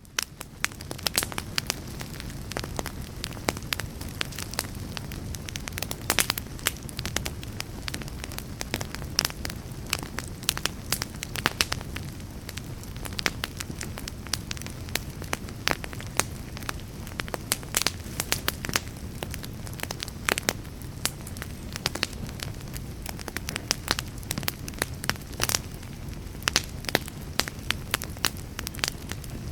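Wood fire in a fireplace crackling, with frequent sharp pops and snaps over a steady low rumble, fading in at the very start.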